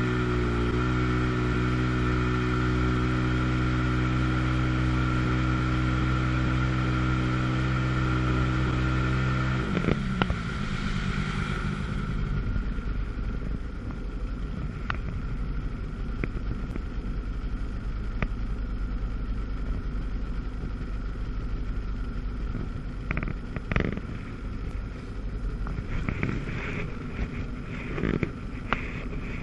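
1997 Sea-Doo GTS jet ski's 720 two-cylinder two-stroke engine running at a steady high pitch at speed. About ten seconds in, the throttle comes off and the steady note drops away to a rougher, lower running sound mixed with water and wind noise, with a few sharp knocks or splashes near the end.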